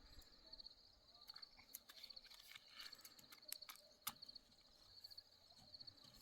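Faint insect chirping, a steady pulsing trill, with a scattering of small clicks and knocks around the middle.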